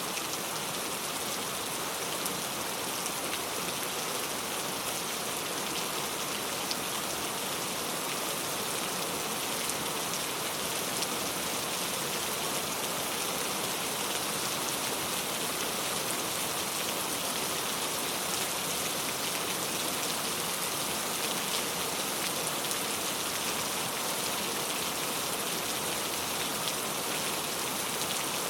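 Very heavy rain falling steadily, a dense even hiss made of many tiny drop impacts.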